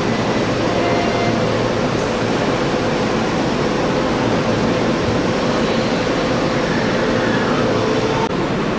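Electric commuter train standing at a station platform with its doors open, its onboard equipment giving off a steady running hum with a faint steady tone. The sound changes abruptly near the end.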